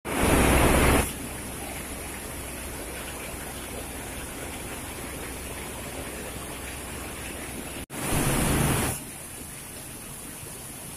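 Heavy rain hissing steadily on a corrugated sheet roof and pouring off its edge onto the ground. A louder rush of about a second comes at the very start and again about eight seconds in.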